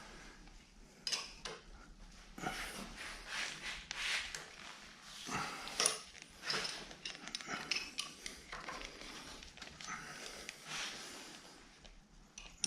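Metal machine parts and tools being handled: irregular clinks, knocks and short scrapes of metal on metal, with a sharper clink about six seconds in.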